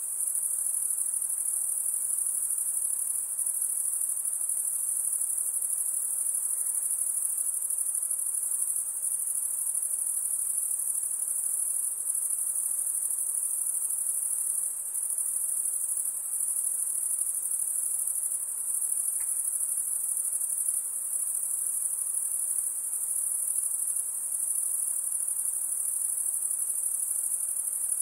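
A chorus of insects making an unbroken, very high-pitched, steady shrill.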